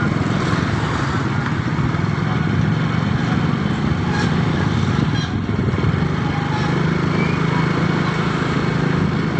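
Motorcycle engine running at a steady speed while riding, over a constant haze of wind and road noise.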